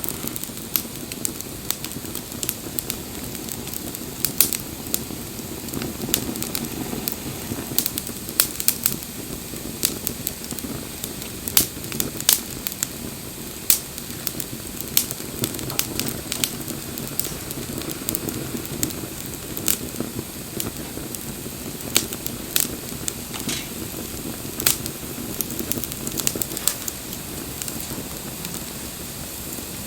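Wood bonfire crackling, with sharp irregular pops and snaps over a steady low rush of burning flames.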